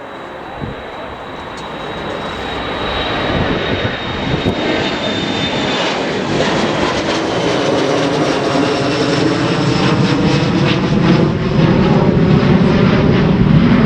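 Airliner engines close by, a steady roar with a high whine that grows steadily louder as the aircraft comes nearer.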